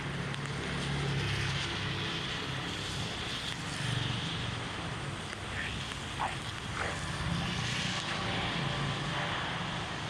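Steady rushing noise of heavy rain and floodwater, with wind rumbling on the microphone and a few short knocks about six to seven seconds in.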